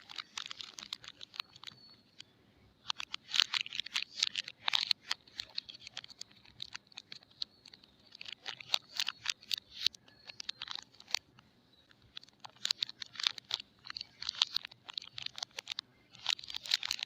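Soap packaging being handled and unwrapped, crinkling and crackling in repeated bursts of a second or two with short pauses between.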